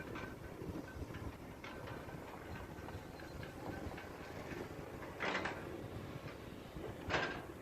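Hydraulic excavator at work, its diesel engine running as a steady low rumble, with two short louder bursts of noise about five and seven seconds in.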